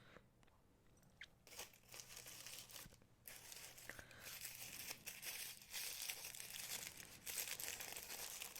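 Packaging crinkling and rustling as it is handled and unwrapped, a dense crackle of small clicks that starts about a second and a half in and grows louder about three seconds in.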